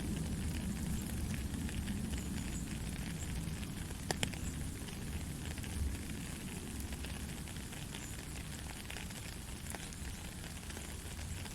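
Steady soft rain, a continuous hiss over a low rumble, with a couple of sharp ticks about four seconds in.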